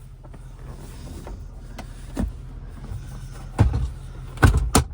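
Duramax 6.6 L V8 turbodiesel idling as a steady low hum, heard from inside the cab, with a few sharp knocks and clicks of handling about two, three and a half and four and a half seconds in.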